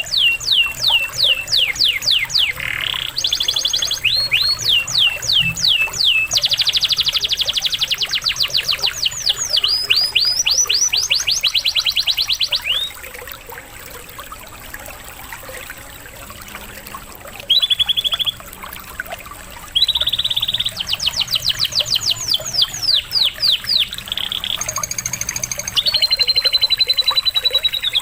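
Domestic canary singing in fast rolling trills of repeated sweeping notes, broken by a few seconds' pause about halfway through, over a steady background of running water.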